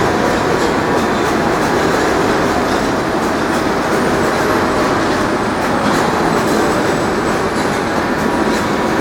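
R62A subway train on the elevated IRT Flushing Line rolling along with a loud, steady rumble, its wheels ticking over rail joints.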